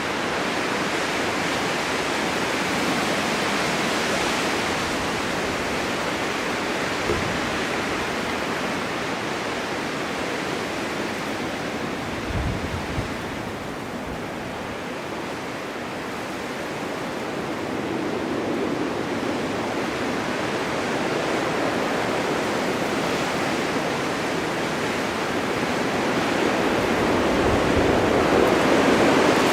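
Blizzard wind driving snow: a steady rushing noise that swells and eases slowly, louder near the end, with a couple of brief low thuds.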